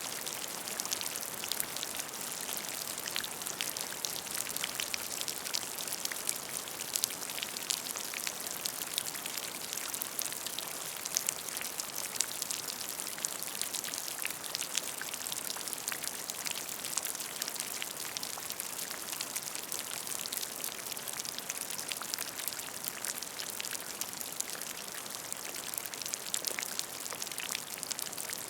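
Steady rain falling on a puddle: a continuous hiss with dense, crisp patter of individual drops hitting the water.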